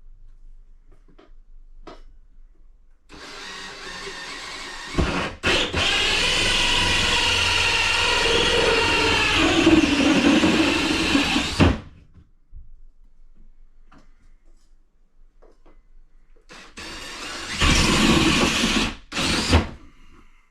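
A power tool running while cutting a pot-light hole in a drywall ceiling: a long steady run of about eight seconds, louder after its first couple of seconds, then a second run of about three seconds near the end.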